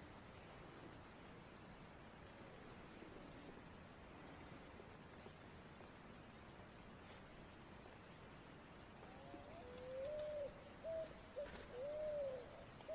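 Steady high insect chirring, with a bird joining in about nine seconds in with a run of short rising-and-falling hooting calls.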